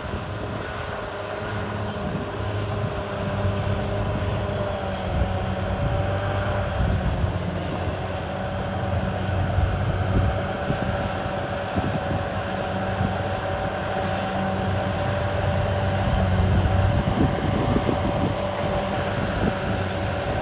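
CAT D6R crawler bulldozer's diesel engine running steadily, with the steel tracks squealing as it moves, a steady metallic tone held over the engine.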